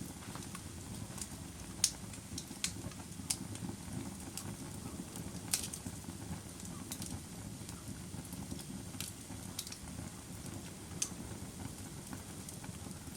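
Wood fire burning, with a steady low rush under irregular, sharp pops and crackles, several of them in the first six seconds and then further apart.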